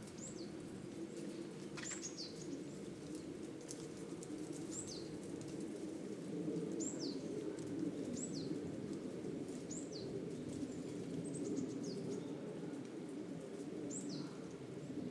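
A small bird giving short, high calls that drop sharply in pitch, one every second or two, over a steady low background rumble.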